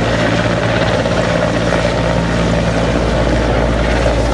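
Helicopter running close by, a loud, steady rotor and engine noise with a constant low hum.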